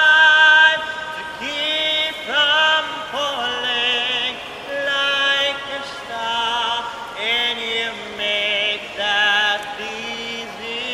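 A gondolier singing a song solo, without accompaniment, in long held notes with a strong vibrato.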